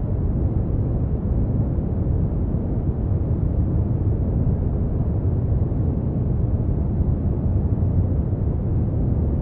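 Steady synthetic brown noise: a deep, even rumbling hiss, strongest in the low end and muffled at the top, with no changes.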